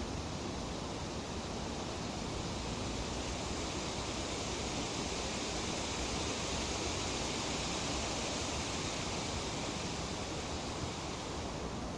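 Breeze rustling through tree leaves as a steady hiss-like rush, swelling slightly in the middle before easing again.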